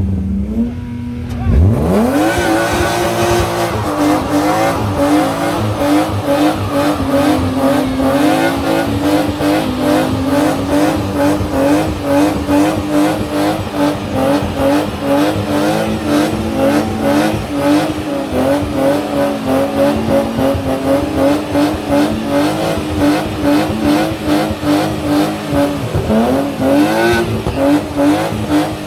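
Car engine revs up steeply about two seconds in and is held at high revs with rapid wobble for a long stretch, with tyres squealing, as in a burnout. The revs dip briefly and climb again near the end.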